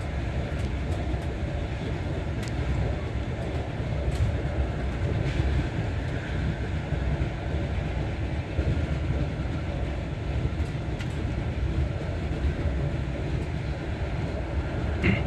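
Passenger train running, heard from inside the carriage: a steady low rumble of the wheels on the rails with faint scattered clicks, and a brief higher sound near the end.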